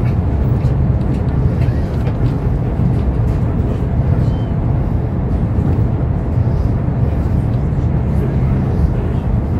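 Steady low rumble of a YHT high-speed train running at speed, heard from inside the passenger car.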